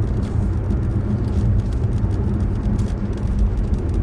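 Steady low rumble with a noisy hiss over it, like road noise heard inside a moving car.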